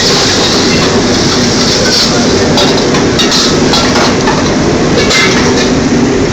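Steady, loud roar of a commercial Chinese kitchen's wok burner and exhaust hood, with a few metal clinks over it.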